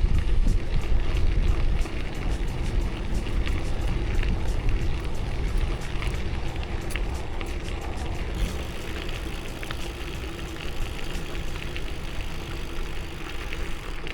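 Wind rushing over the microphone of a moving bicycle rider, with a fast run of fine clicks or crackles for the first eight seconds or so that then thins out.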